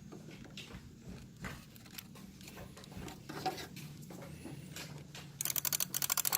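Faint handling rustles, then, about five seconds in, a relay in a 1998 Lexus ES300's under-hood relay box starts clicking rapidly and evenly, about ten clicks a second. The chatter persists with the relay swapped for another one, and the owner suspects the ignition switch.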